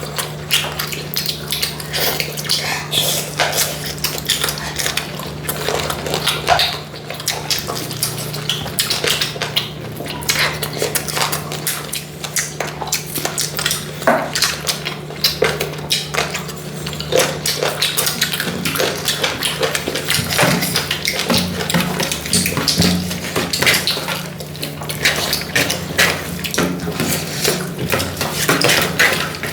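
Eating sounds: plates and cutlery clinking and scraping in many irregular small clicks while chicken curry and rice are eaten fast, over a steady low hum.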